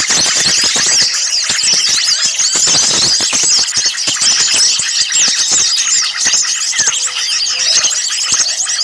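A dense, agitated chorus of many small songbirds, with rapid high chirps and trills overlapping without a break. It is a mixed bird-lure recording of noisy small birds.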